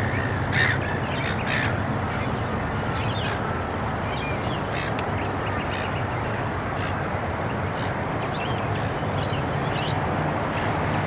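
Birds chirping and calling in short bursts over a steady rushing background noise.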